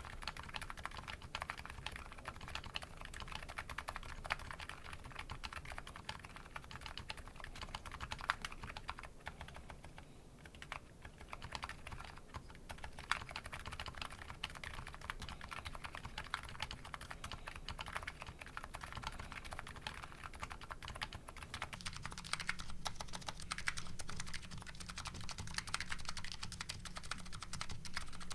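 Continuous typing on a Nuxros Kraze custom keyboard with MetaKeebs MetaPulse electrocapacitive switches: a dense, steady run of key clacks. About two-thirds of the way in the sound changes as the keycaps switch from JCS Arabic to CRP R5 Korean.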